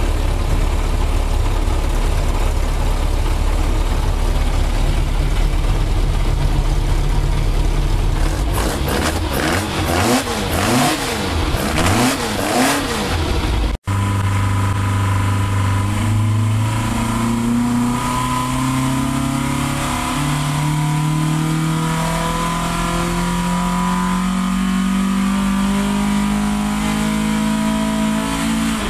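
1660cc Ford Crossflow four-cylinder engine running on an engine dynamometer. It runs steadily at first, then is revved up and down several times in quick blips. After a cut it makes one long, even pull, its pitch rising slowly from about 3,000 to about 6,500 rpm.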